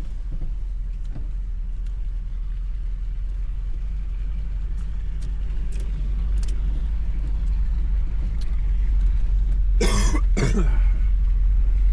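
Volkswagen Vanagon driving on a rough road, heard from inside the cab: a steady low engine and road rumble that grows louder in the second half. A short burst of the driver's voice, like a cough, about ten seconds in.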